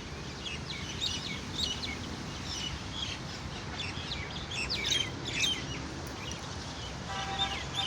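Many small birds chirping and twittering in quick, overlapping short calls, over a steady low background rumble. About seven seconds in, a short, lower call with several stacked tones joins in.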